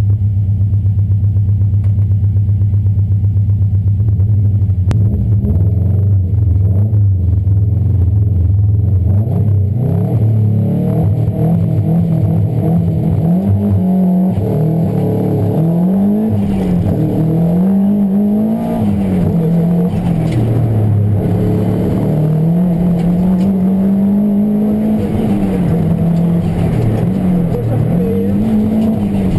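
Subaru rally car's flat-four engine, heard from inside the cabin: it idles steadily for about the first ten seconds, then revs up and down over and over.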